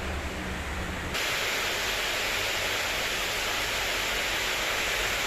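Heavy rain pouring down in a steady hiss. Under it a low rumble runs for about the first second; then the sound switches abruptly to a louder, brighter rain hiss.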